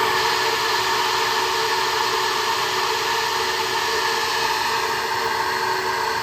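Flow bench's vacuum motors running steadily, pulling air through an LS7 cylinder head port with the valve open at 650 thousandths of lift: a constant rush of air with a steady motor whine.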